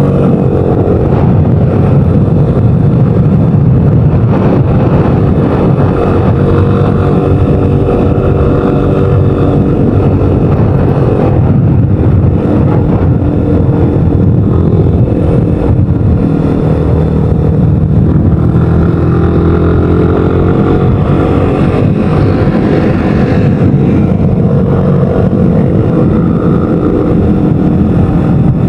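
Vehicle engine running steadily on the road, its pitch slowly rising and falling with speed, over a constant low rumble.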